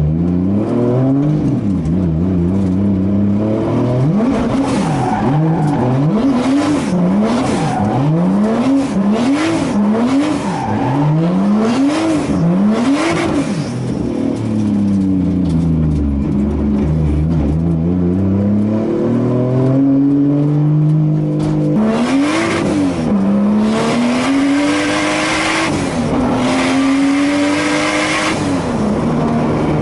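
Turbocharged 2JZ-GTE straight-six in a Nissan 240SX drift car, revving up and down in quick blips about once a second. Then it makes a slower dip and climb and settles at a steadier, higher rev.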